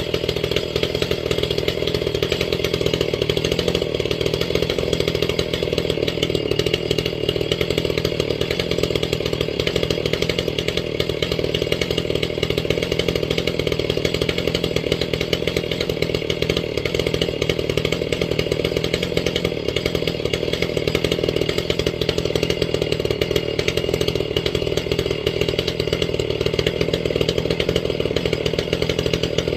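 Ported Echo CS-670 two-stroke chainsaw running at a steady, unchanging speed.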